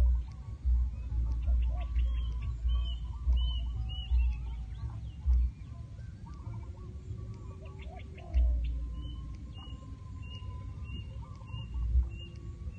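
Birds calling: lower chattering notes, then a short high note repeated about twice a second through the second half. Low rumbles and bumps of wind on the microphone come and go underneath and are the loudest sound.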